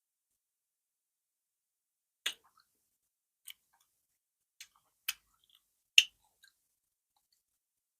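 Wet mouth clicks and lip smacks from eating fufu with okra soup close to the microphone: about five separate sharp clicks, the loudest about six seconds in, with silence between.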